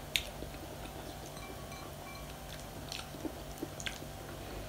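Quiet chewing and biting while eating chicken feet, with a few sharp clicks, the sharpest just after the start and several more near the end.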